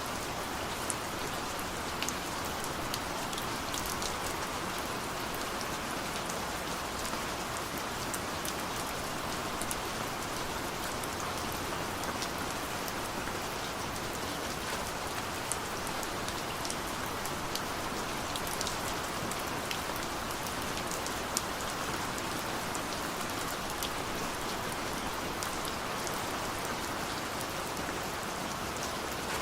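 Steady rain falling, an even hiss dotted with the ticks of individual drops.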